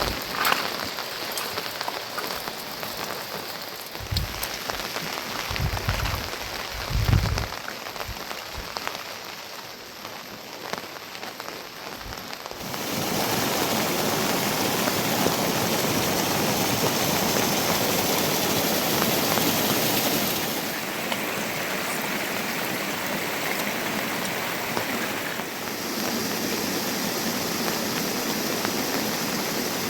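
Rain falling, a steady hiss of drops. A few low thumps come between about four and eight seconds in. The rain turns abruptly louder and fuller about twelve seconds in.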